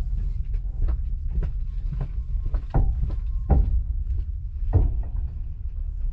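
Train running slowly, heard from inside the carriage: a steady low rumble with irregular sharp knocks of the wheels over rail joints and points, and a faint squeal for about a second and a half near the middle.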